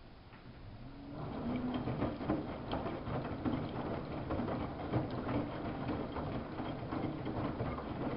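Samsung WF71284 front-loading washing machine turning its drum in the wash: a motor hum under the splashing and clicking of wet laundry tumbling, starting about a second in and stopping near the end.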